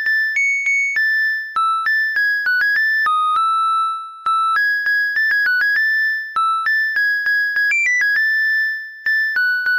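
Washing machine's end-of-cycle alarm, its electronic beeper playing a tune one plain high note at a time, signalling that the wash is finished.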